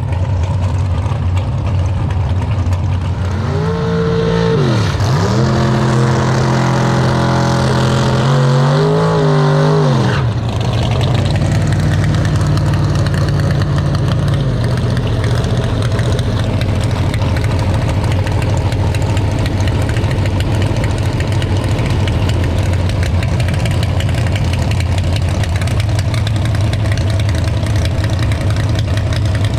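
Car engines at a drag strip: a steady low idle throughout, and from about three seconds in a car engine held at raised, steady revs with a brief dip, which cuts off sharply about ten seconds in.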